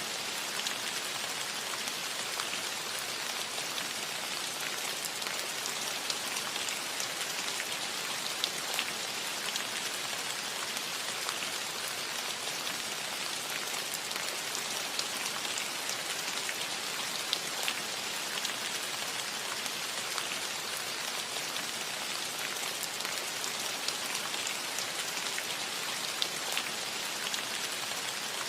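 Steady rain falling on a roof: an even hiss with many small, sharper drop ticks scattered through it.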